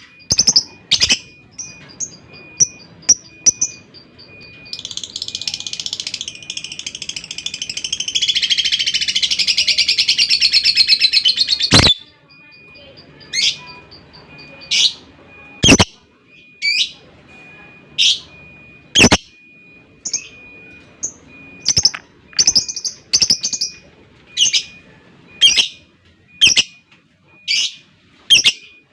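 Lovebird calling: a few sharp high chirps, then a long, fast rattling trill (the 'ngekek') that grows louder for about seven seconds and stops abruptly, followed by single sharp chirps about once a second.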